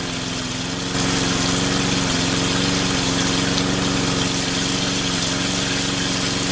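Small engine running steadily at an even speed, with a hiss that gets louder about a second in.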